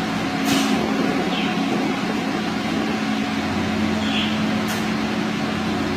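Steady hum of a small electric motor with a low tone, with four brief high-pitched sounds over it.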